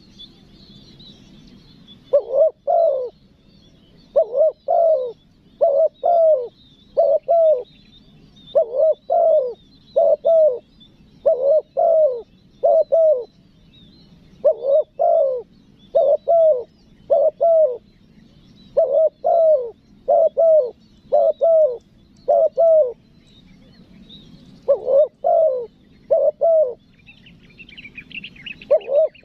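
Spotted dove cooing over and over in short notes that come in quick pairs about a second apart, with a few brief pauses. Faint high chirping of small birds runs behind it, and a short higher twittering comes near the end.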